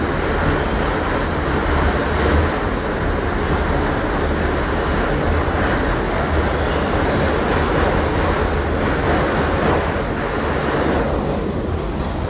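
Kawasaki R62 subway car running along the track: a steady rumble with a hiss of wheel and rail noise. The higher hiss eases off about eleven seconds in.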